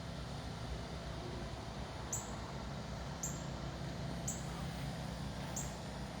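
Outdoor background: a steady low hum with a short, very high-pitched chirp repeating about once a second.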